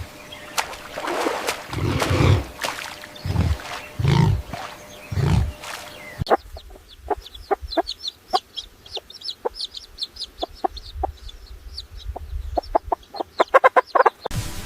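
Chickens clucking: low clucks about once a second, then a sudden change about six seconds in to rapid, short, high-pitched cheeping.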